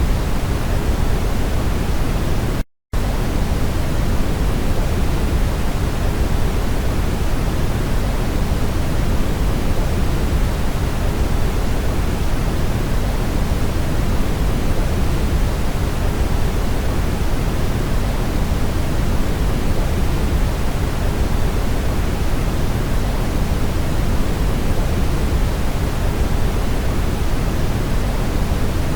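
Steady brown noise: an even, deep hiss weighted toward the low end, with no tones or rhythm. It cuts out completely for a split second about three seconds in, then carries on unchanged.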